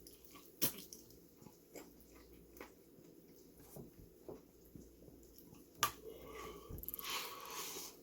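A person chewing spicy chicken, with scattered wet mouth clicks and two sharper snaps. Near the end comes a loud hissing breath.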